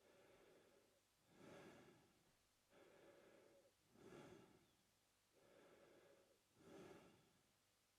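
A man breathing slowly and quietly through his mouth, each breath an airy draw and release with one phase louder than the other; about three full breaths in a steady, even rhythm.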